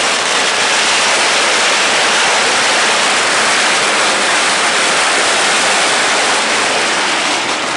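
A loud, steady rushing hiss with no pitch, cutting off near the end, where sharp cracks begin.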